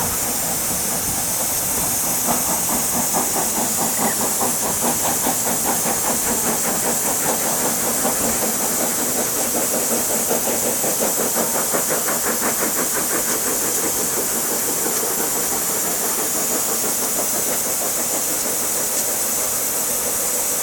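Steam locomotive hissing steam steadily, with a quick, even beating that starts about two seconds in and fades away about two thirds of the way through.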